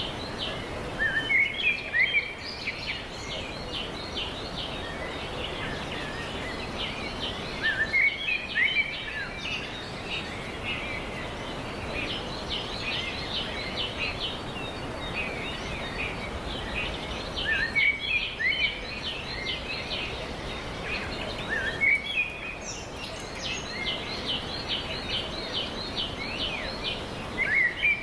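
Small birds chirping in rapid twittering runs, with louder clusters of sharp chirps returning every few seconds over a steady background hiss.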